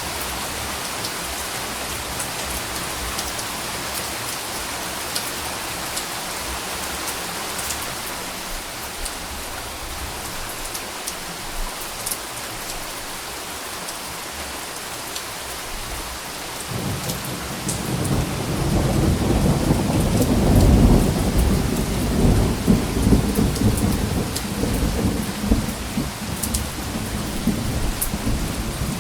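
Steady rain pattering, with scattered sharper drop ticks. About two-thirds of the way through, a low rumble of thunder rises, peaks a few seconds later and keeps rolling to the end.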